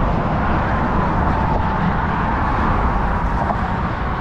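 Steady road traffic noise from vehicles crossing the bridge.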